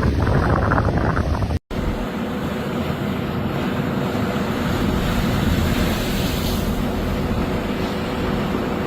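Strong wind buffeting the microphone over rough water, heavy and gusty. About two seconds in it cuts to a steadier windy rush with a faint constant hum underneath.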